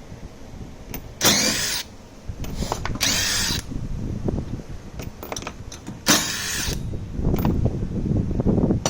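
Handheld power tool run in three short bursts of about half a second each, a couple of seconds apart, with light clicks of tools and parts between, as the pit bike's sprocket hardware is worked on.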